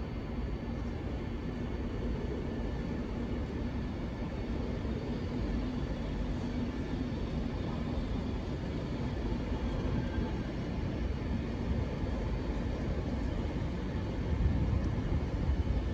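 SNCB AM80 electric multiple unit rolling along a far track through the station: a steady low rumble with a faint hum, a little louder near the end.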